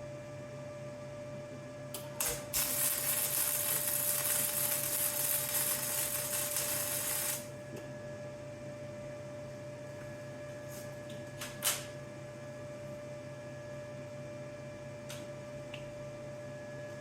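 MIG welder striking an arc and running a weld for about five seconds, a steady hiss, starting about two seconds in after a couple of clicks. A steady electrical hum runs underneath, with a single click later on.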